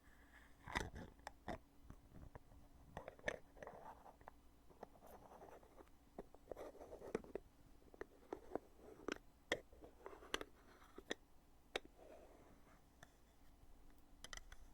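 Heavy lid of a cosmetic foundation container being opened and closed over and over: a series of sharp, irregularly spaced clicks, with soft rubbing and scraping of the lid between them.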